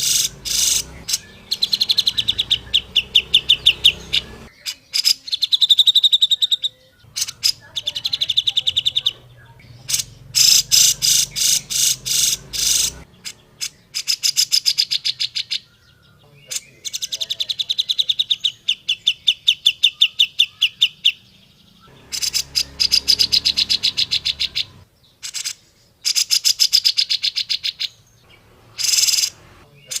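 Grey-cheeked bulbul (cucak jenggot) singing: loud, rapid chattering runs of sharp, high notes delivered in phrases of a few seconds, with short pauses between them.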